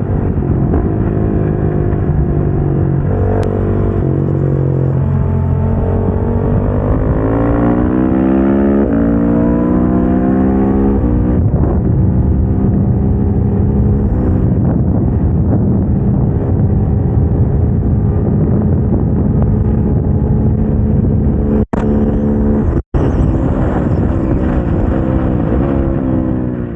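KTM 690 SMC-R single-cylinder engine accelerating hard on track, its pitch rising through the gears with upshifts partway through, then holding at high revs. The sound cuts out for an instant twice near the end and then stops suddenly.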